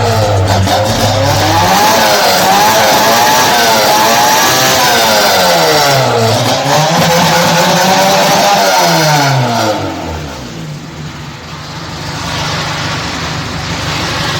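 Lada Zhiguli's four-cylinder engine being revved several times through a homemade side-exit exhaust, the pitch rising and falling with each rev. About ten seconds in it drops back to a steady idle.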